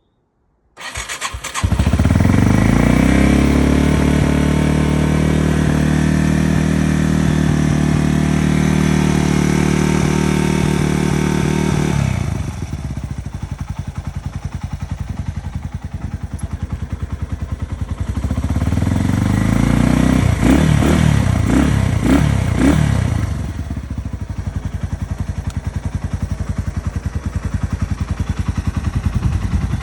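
Yamaha TW200's single-cylinder four-stroke engine starting about a second in and running at a high, steady idle. It drops to a lower idle partway through, is revved several times in quick blips, then settles back to idle.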